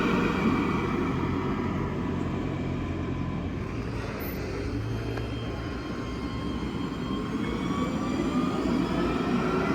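Alstom Citadis 405 tram running on its rails, a steady rumble with electric motor whine. It eases to its quietest around the middle, then grows again with a whine rising in pitch near the end as the tram picks up speed.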